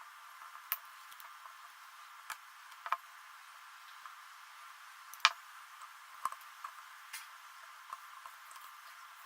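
Scattered short clicks and light knocks, about eight in all, with the loudest one about five seconds in, over a steady hiss: small objects being handled.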